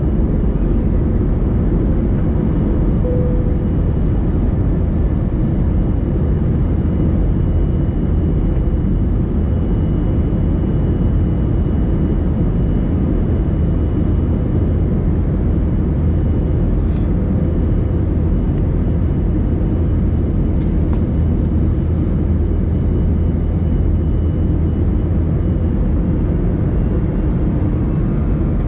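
Airbus A321 cabin noise during the climb after takeoff: a steady, even rush of jet engine and airflow noise with a strong low rumble and a faint high whine.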